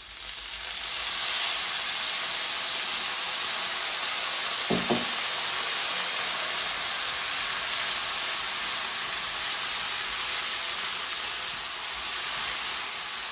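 Vegetables stir-frying in hot oil with soy sauce just added to the pan: a steady sizzle that swells about a second in and holds.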